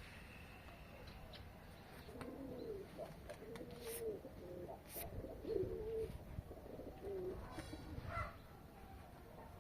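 Domestic pigeons cooing, a run of low, wavering coos repeated for several seconds, with a few sharp clicks among them.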